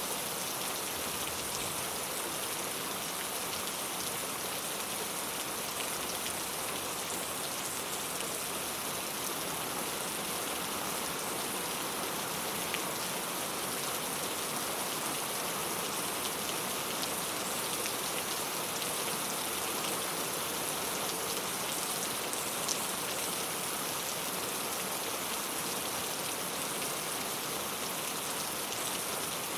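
Steady rain falling on a clay-tile roof: an even hiss of drops, with now and then a single louder drop.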